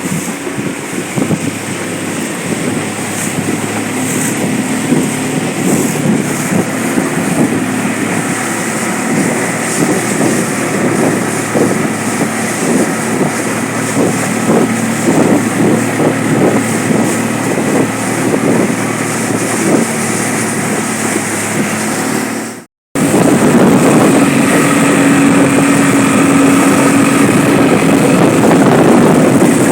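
A small river boat's outboard motor running steadily, with wind buffeting the microphone. About 23 seconds in, the sound cuts out for a split second, then the engine comes back louder.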